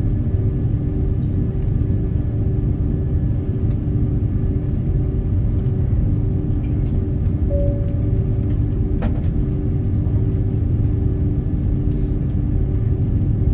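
Steady low rumble of an airliner cabin in flight or on the runway: engine and airflow noise with a few steady hums. A brief tone sounds about seven and a half seconds in and a sharp click about nine seconds in.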